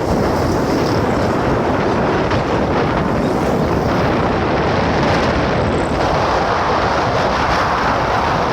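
Steady, loud rushing noise of wind buffeting the microphone, with a low rumble under it.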